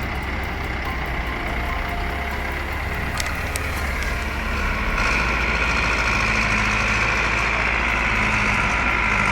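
Tractor engine running steadily, getting louder about five seconds in.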